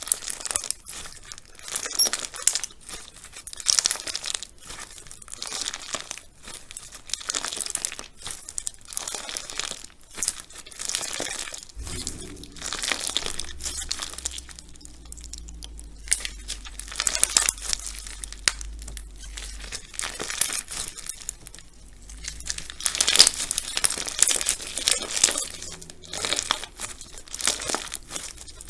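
Slime being squeezed and pressed by hand, giving a dense run of quick crackles and pops.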